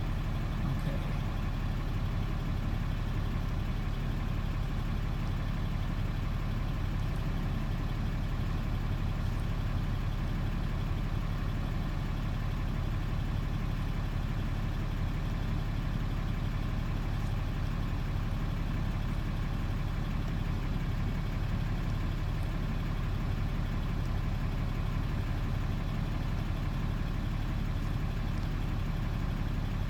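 2017 Dodge pickup truck's engine idling steadily, a constant low hum.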